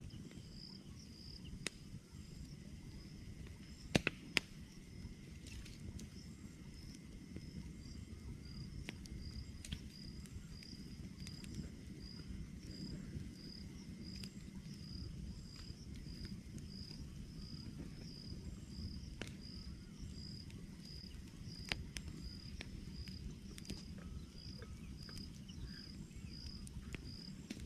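Wood fire crackling, with occasional sharp pops, the loudest pair about four seconds in. Over it a high chirp repeats evenly, about one and a half times a second.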